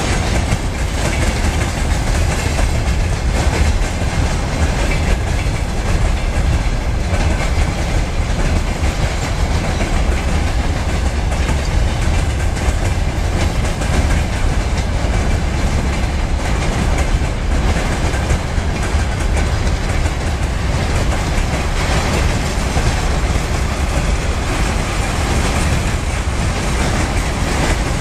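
Freight train wagons, tank cars and open wagons, rolling past steadily, the wheels clattering over the rail joints with a deep continuous rumble.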